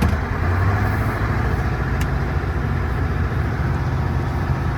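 Scania truck under way: a steady low diesel engine drone mixed with road and tyre noise, heard from inside the cab.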